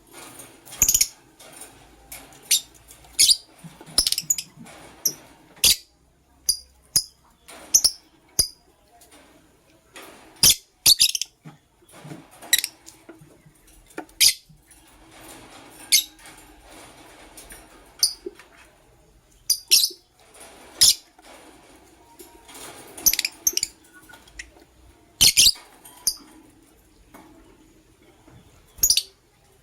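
Lovebirds chirping: short, sharp, high-pitched calls, singly or in quick pairs, at irregular intervals about every second.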